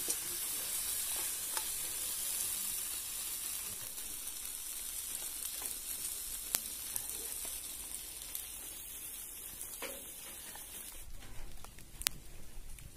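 Banana skipper caterpillars frying in hot oil in a pan over a wood fire: a steady sizzle that slowly dies down, broken by a few sharp clicks.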